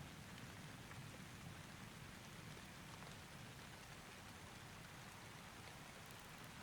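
Faint, steady rain, an even hiss of falling drops with no thunder.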